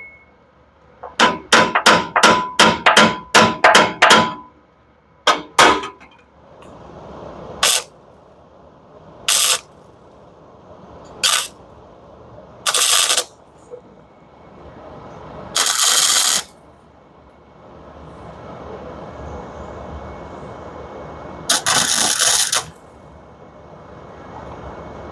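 Hammer tapping on steel exhaust pipe, about a dozen quick ringing strikes, with two more shortly after. Then six short bursts of crackling arc welding as the pipe joints are tack-welded, the last two about a second each.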